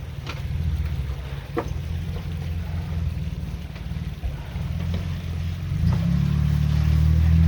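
Lifted Jeep's engine running at low speed while rock crawling, with a few sharp knocks along the way; about six seconds in the engine note gets louder and steadier.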